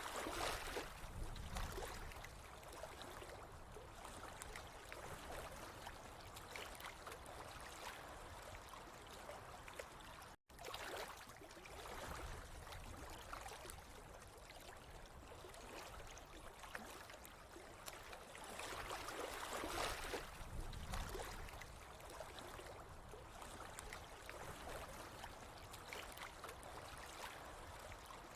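Running water trickling and gurgling steadily, swelling and easing now and then, with the sound cutting out for an instant about ten seconds in.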